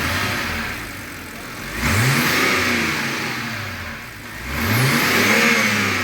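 BMW N52 3.0 L inline-six engine being snapped to wide open throttle twice, each rev rising quickly and dropping back toward idle. It revs cleanly, rated by the seller as making no abnormal noise.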